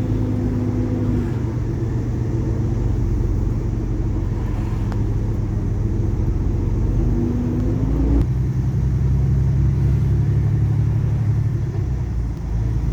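Engine and road noise inside the cab of a moving truck towing a trailer: a steady low drone with an engine note that sags slightly and climbs again, then shifts about eight seconds in.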